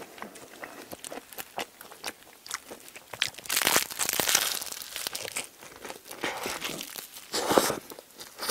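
Close-up chewing and crunching of a crusty baguette sandwich, many small crackles with a louder crunchy bite about three and a half seconds in and another near the end.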